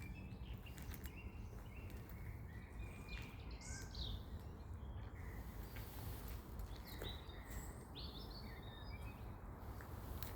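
Small birds chirping and calling now and then over a steady low rumble of outdoor background noise.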